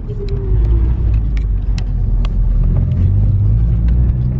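Nissan Silvia S15's SR20DET turbocharged four-cylinder engine, breathing through a 3-inch turbo elbow and downpipe, running as the car drives off; its pitch dips in the first second and climbs again about three seconds in, with a few sharp ticks over the top.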